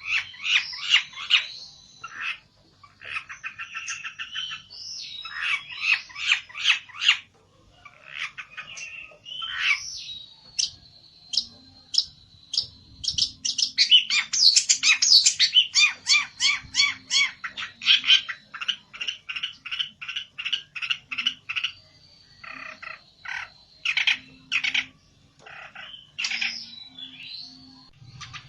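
Pelentet (long-tailed shrike) in an agitated, fighting mood, giving long runs of rapid, harsh chattering notes with a thin high whistle held under parts of them.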